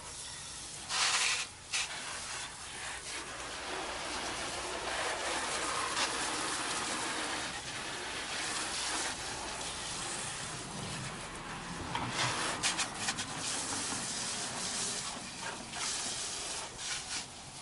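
Water spraying from a hose nozzle on its shower setting onto an engine bay: a steady hiss with louder spurts about a second in and again past the middle, as the spray is moved around.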